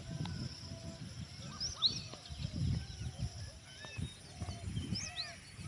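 Many birds chirping and calling at once, short arching notes overlapping one another, over a low rumble.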